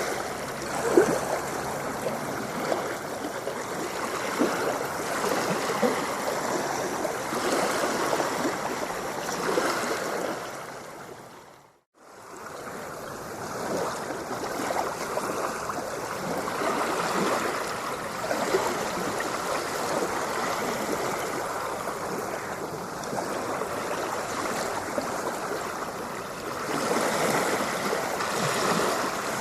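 Ocean water lapping and washing in a continuous splashy wash. About twelve seconds in it fades out to silence for a moment, then fades back in, as at the seam of a looped recording.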